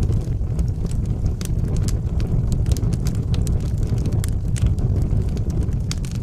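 Wood fire in a fireplace burning with a steady low rumble and frequent irregular crackles and pops.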